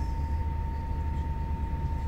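Steady low rumble of a moving passenger train heard inside the carriage, with a constant thin high tone over it.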